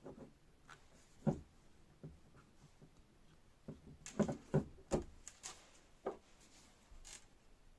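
Scattered clicks and light knocks of hydraulic jack parts being handled and fitted together during reassembly, with a quick run of several knocks about four to five seconds in.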